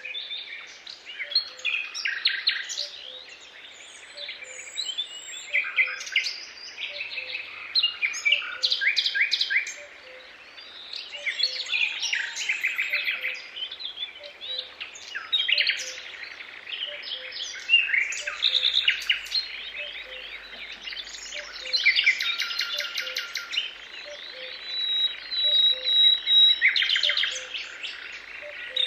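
Several songbirds singing and chirping over one another in a natural chorus, with many quick trills and short whistled phrases. Underneath, a faint low note repeats steadily about once a second.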